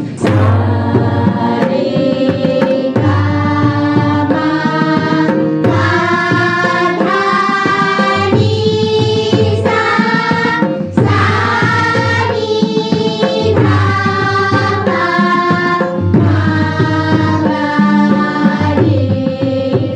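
Singers voicing a sargam scale exercise (sa re ga ma…) on sustained, stepping notes, accompanied by a steady tabla rhythm.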